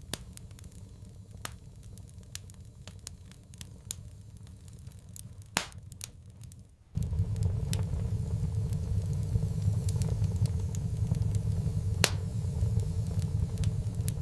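Wood fire crackling, with scattered sharp pops. About halfway through, a steady low rumble comes in under the crackle.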